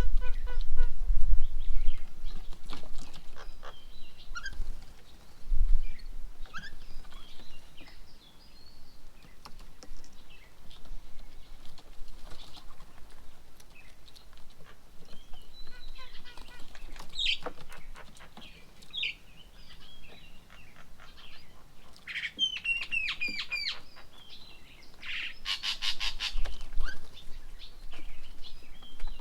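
Several birds calling at a garden bird table: scattered short chirps and whistles, a quick run of rising notes a little past the two-thirds mark, then a harsh, rattling chatter. Some low bumps in the first seconds.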